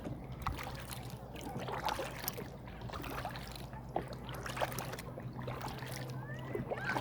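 Kayak paddle strokes, the blades dipping, splashing and dripping water in a loose, steady rhythm, over a steady low hum.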